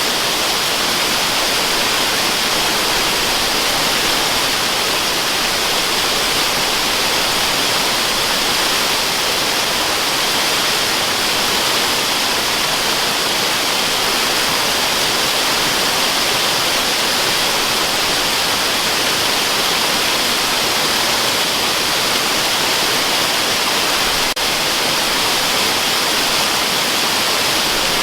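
Waterfall: a steady, unbroken rush of falling water with a bright, hissy character, used as white noise. There is one momentary dip about three-quarters of the way through.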